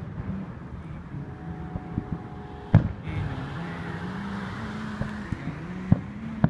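Aerial fireworks going off at a distance: several sharp bangs, the loudest about three seconds in and another near the end. A crackling hiss follows the big bang for a couple of seconds. A steady low hum runs underneath.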